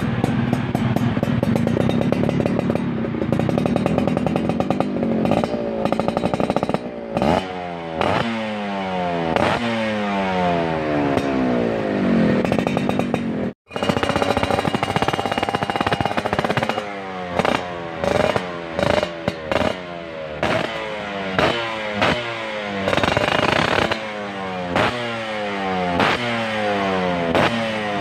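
Yamaha F1ZR two-stroke single-cylinder engine running through a WRS aftermarket exhaust, held at steady revs at first and then blipped over and over, the pitch falling away after each blip. The sound cuts out for a moment about halfway through.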